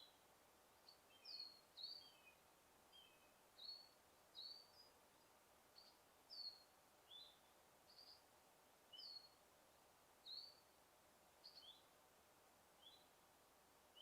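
Faint, short bird chirps repeating about once a second, many falling slightly in pitch, over a quiet steady hiss.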